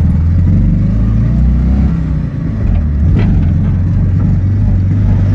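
ZAZ-965 Zaporozhets' small air-cooled V4 engine running as the car drives along, heard from inside the cabin. A little over two seconds in, the sound dips briefly, then settles at a higher, steady pitch.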